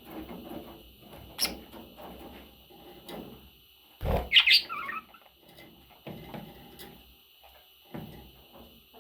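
Pet budgies making short scratchy bursts of sound, with one loud, sharp chirp about four seconds in.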